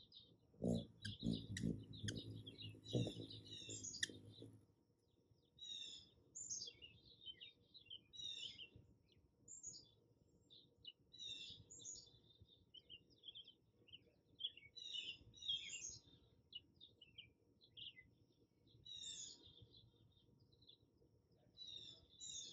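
Faint short, high bird chirps in quick clusters, repeating every second or two. A few low thumps sound in the first four seconds.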